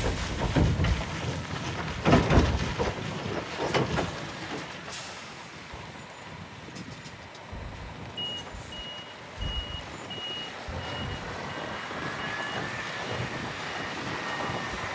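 A truck's reversing alarm beeping steadily, about two beeps a second, starting about eight seconds in. Before that there are rumbling knocks and noise, like wind or handling on the microphone.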